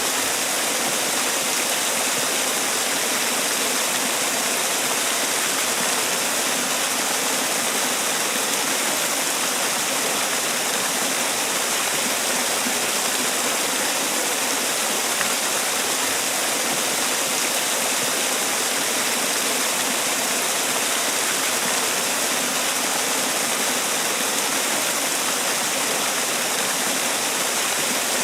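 Man-made waterfall: water falling and splashing in a steady, even rush with no breaks.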